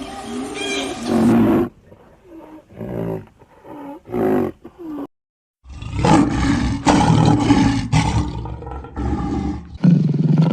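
A sequence of animal calls cut together from separate clips, with a brief silent break about five seconds in; the second half is a loud, dense run of repeated calls.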